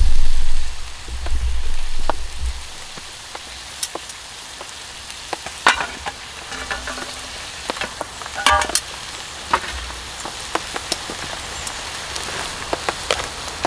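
Horumon sizzling in an iron wok as it is stir-fried, a steady hiss with crackling and a few sharp clinks of a utensil against the pan, the loudest about six and eight and a half seconds in. A loud low rumble fills the first two seconds or so.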